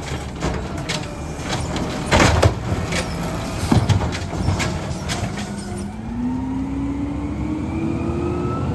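Garbage truck running while a cart is dumped into its hopper: rattling clatter with two heavy bangs about two and four seconds in. From about six seconds the engine revs rise steadily.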